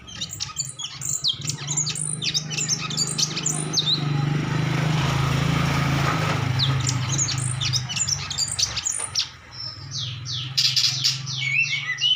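Cucak cungko songbird singing busily in rapid runs of high chirps and short whistles. They give way for a couple of seconds in the middle to a rushing noise, then resume, louder near the end. A low steady hum runs underneath.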